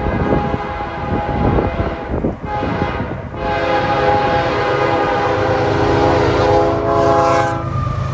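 Diesel freight locomotive of an empty BNSF coal train approaching, its air horn sounding one long chord from about three seconds in until just before the end, over the rumble of the oncoming train.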